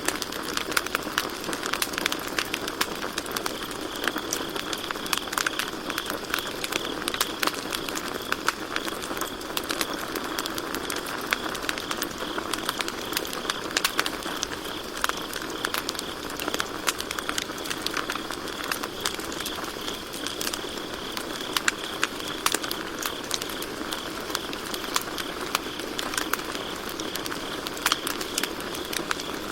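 Campfire crackling, with irregular sharp pops and snaps of burning wood over a steady hiss of the flames, and crickets chirping steadily in the background.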